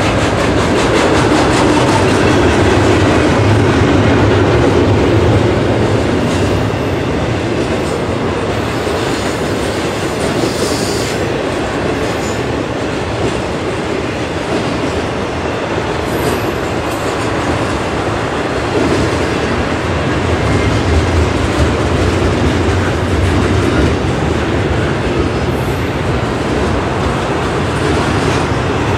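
Loaded double-stack intermodal well cars of a freight train rolling past close by: a loud, steady noise of steel wheels running on the rails.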